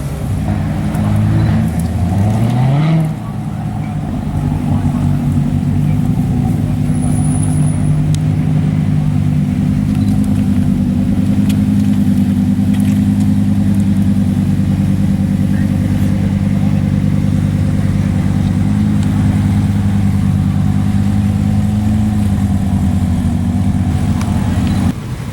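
Car engine revving up, its pitch rising over the first few seconds, then running at a steady speed with a low, even drone. It is cut off abruptly near the end.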